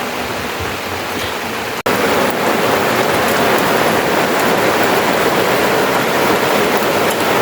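Steady rushing noise with no clear tones, like rain or wind. It cuts out sharply for an instant about two seconds in, then returns louder.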